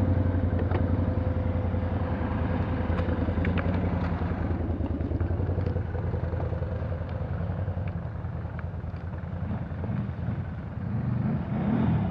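A vehicle engine running steadily with a fast low pulse, easing off a little in the middle and rising briefly again near the end.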